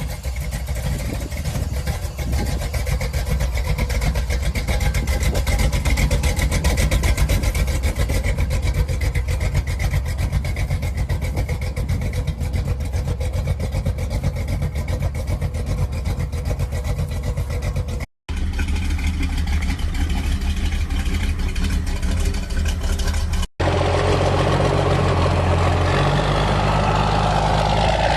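Old truck engines running in three back-to-back clips, each change an abrupt cut, with rapid firing pulses in the first; in the last clip the engine revs up.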